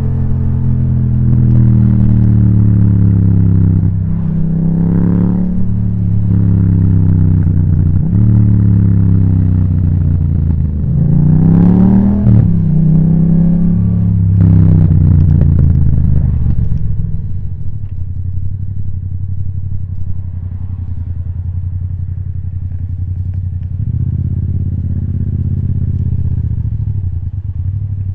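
Yamaha MT-07's parallel-twin engine through an Akrapovic titanium exhaust, ridden with the revs rising and falling through several gear changes. From a little past halfway it settles to a lower, steadier and quieter note.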